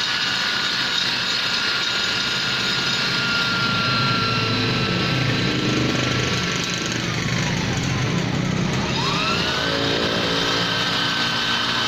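High-speed rotary grinder fitted with a tuner burr, whining steadily as it grinds and shapes the ports of a Vespa engine. About seven seconds in, its pitch slides down, then about two seconds later it rises back up to full speed.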